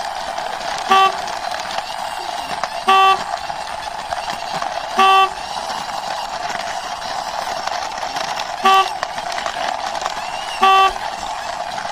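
A steady hum with five short horn toots about two seconds apart, with a longer gap before the fourth.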